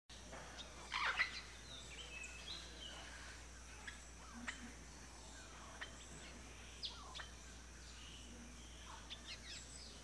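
Faint ambience of assorted wild birds chirping and calling, with short sweeping calls scattered over a steady hiss and a louder flurry about a second in.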